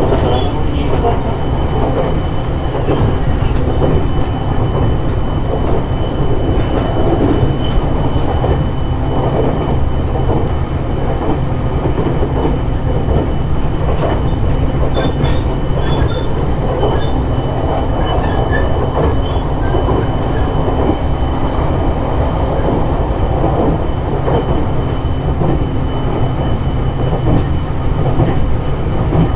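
JR East E721-series electric multiple unit running at a steady speed, heard from on board: wheels rolling on the rails with rail-joint clatter and a thin steady high tone.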